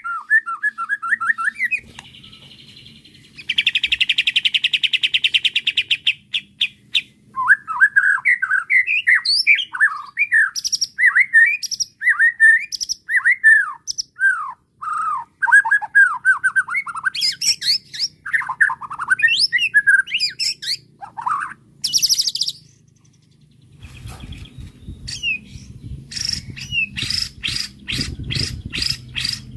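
White-rumped shama singing a varied song: a long buzzy rattle early on, then many quick whistled phrases swooping up and down, and near the end a run of rapid clicking notes over a low rumble.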